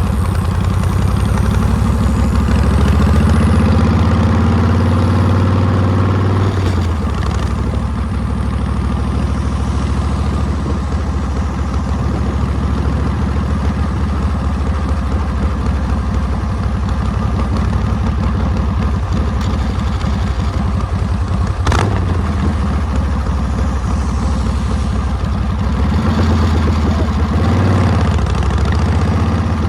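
Harley-Davidson Panhead V-twin engine running under way. It pulls up in revs over the first few seconds and drops off sharply at about seven seconds, then runs steadily. It revs up and back down again near the end, with a single sharp click about two-thirds of the way through.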